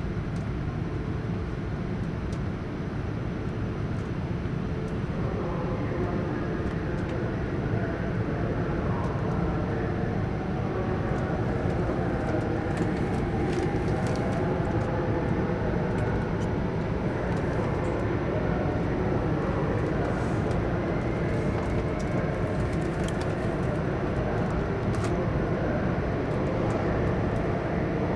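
Running noise of an E4 series double-decker Shinkansen heard inside the carriage: a steady low rumble. A wavering whine joins it about five seconds in, and the sound grows slightly louder.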